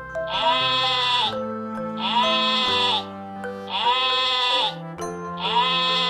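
Sheep bleating four times at an even pace, about every two seconds, each bleat about a second long, over background music with held chords.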